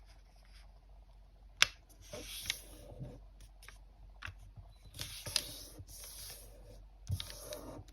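A square of origami paper being folded diagonally into a triangle and creased by hand: soft rustling as the sheet moves, broken by several sharp clicks and taps, the loudest about a second and a half in.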